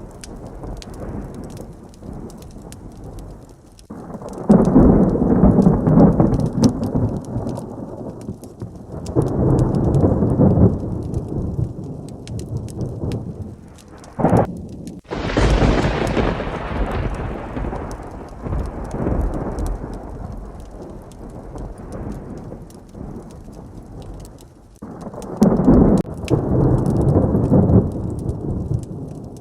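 Thunderstorm with heavy rain: several rolls of thunder rumble over a steady patter of raindrops, with one sharp, close thunderclap about halfway through that fades into a long rumble.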